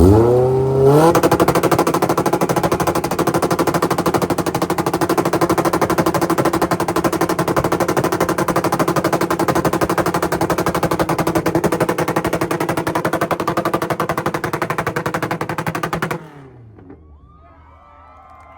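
Honda Civic engine revving up sharply, then held on a two-step launch-control rev limiter for about fifteen seconds: a rapid, machine-gun-like stutter as the limiter cuts ignition and the exhaust pops. It cuts off suddenly near the end.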